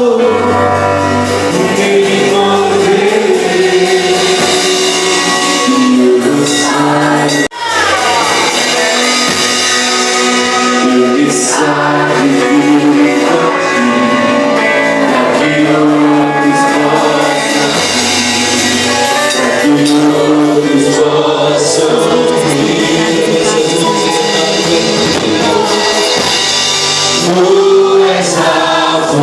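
Portuguese-language gospel worship song: sung vocals with backing singers over a band. The sound briefly cuts out about seven and a half seconds in.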